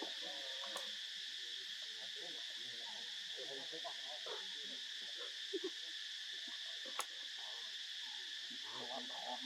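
Steady chorus of insects, a continuous high-pitched drone, with two sharp clicks about a second in and about seven seconds in.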